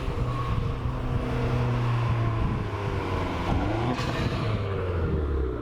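Dodge Dart's 1.4-litre turbo four-cylinder engine running with its resonator and muffler removed (straight-piped). The engine pitch shifts up and down and settles lower after about four seconds.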